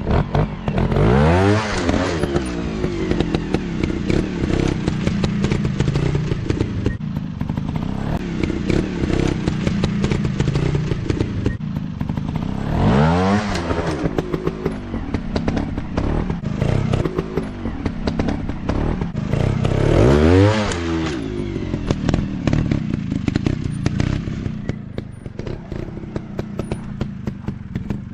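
Off-road dirt bike engines running, with three hard revs that climb and fall back about a second in, about 13 s in and about 20 s in, between stretches of steadier running. Clattering and knocks run through it.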